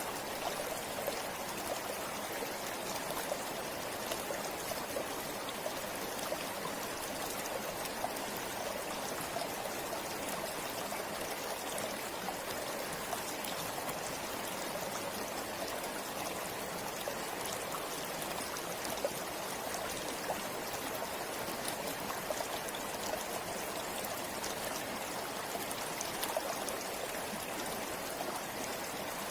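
Forest river or stream flowing steadily over rocks, a constant rush of water with small splashes and trickles.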